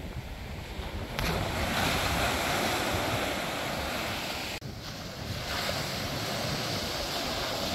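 Ocean surf washing onto a beach, with strong wind buffeting the microphone in a low rumble. The sound jumps abruptly louder about a second in and changes again about halfway through.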